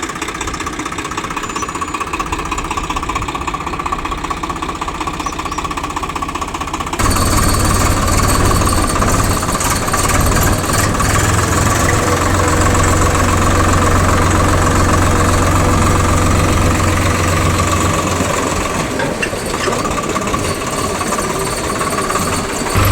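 Diesel engine of heavy machinery running with a knocking clatter, stepping up louder about seven seconds in.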